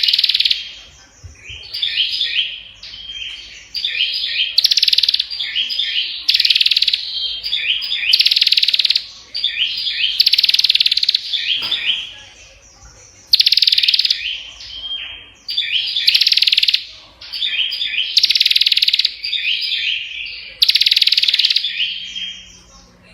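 A prinia (Indonesian prenjak) singing loudly and without pause: bursts of rapid, high chattering notes about a second or two long, one after another with only short gaps.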